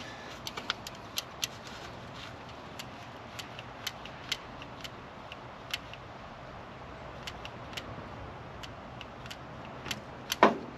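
Scattered, irregular light metallic clicks and taps of hand tools and ignition parts being handled at the distributor, with a louder click near the end; no engine running or cranking.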